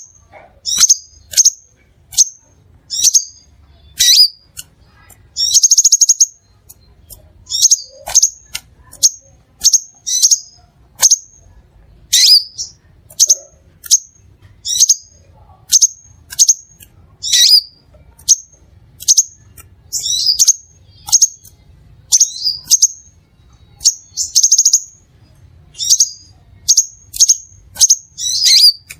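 Crimson sunbird calling: a series of sharp, high chips, about one to two a second, broken twice by a brief buzzy trill.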